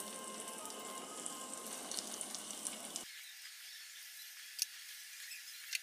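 Breadcrumb-coated veg cutlets sizzling faintly as they shallow-fry in hot oil on a tawa, a soft hiss with scattered crackles. About three seconds in the sound turns thinner and hissier.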